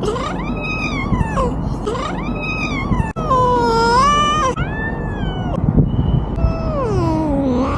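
A cat meowing in a string of about five long, drawn-out calls, each rising and falling in pitch, over a steady low rumble.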